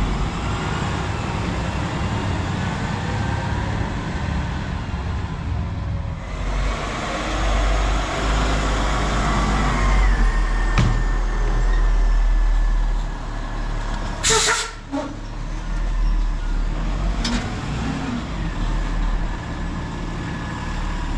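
Garbage truck's diesel engine running with a steady low drone. It grows louder for several seconds near the middle, then comes a short, sharp hiss of air about two-thirds of the way through, like an air brake being set or released.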